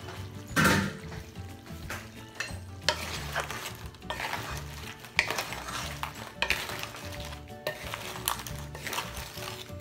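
Seafood frying in butter and garlic in a pan, sizzling as a utensil stirs it, with clinks and scrapes against the pan, the sharpest about half a second in. Background music runs underneath.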